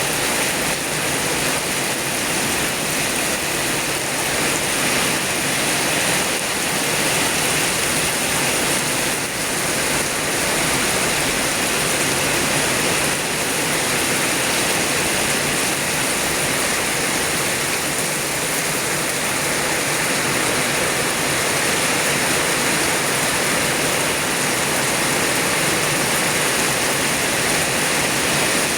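Heavy rain pouring down, a steady loud hiss of downpour.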